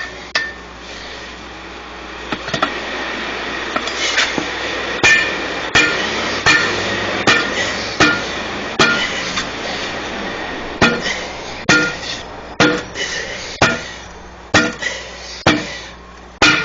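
Repeated hammer blows on steel tire-changing tools, each strike ringing, about one to two a second with a short pause midway, as a stiff, cold truck tire bead is forced off the rim.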